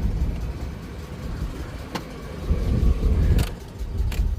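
A truck's V6 engine idling unevenly, its sound sagging and picking back up, with a few sharp clicks. The driver suspects a vacuum leak.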